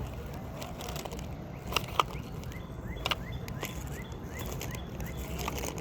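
Outdoor pond-side ambience: a steady low background rumble with a series of faint, short chirps from small birds, and a few sharp clicks about two and three seconds in.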